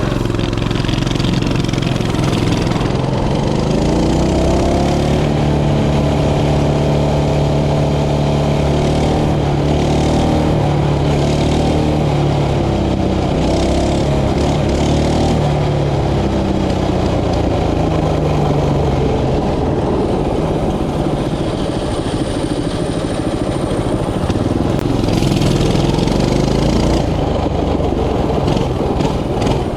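Mini bike's small engine running while being ridden. Its pitch climbs a few seconds in, holds for a few seconds, then falls and rises again as the throttle changes, over a low rumble.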